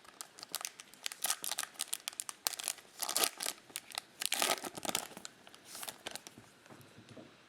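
Plastic trading-card pack wrapper crinkling and tearing open, with rapid irregular crackles that are densest in the first five seconds and then die down.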